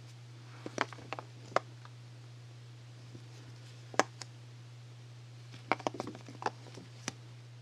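Soaps and their packaging being handled by hand, heard as scattered light taps and clicks, a few in quick clusters, over a steady low hum.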